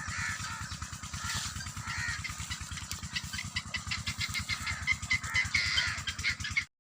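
Birds chirping over an engine running with a fast, steady low putter; the sound cuts off suddenly near the end.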